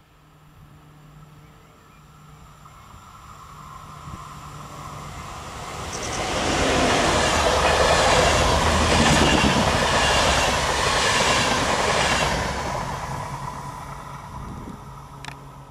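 ÖBB double-deck passenger train passing on electrified track. It builds from a distant hum to a loud rush about six seconds in, with rhythmic wheel clatter over the rails, then fades as the train goes by.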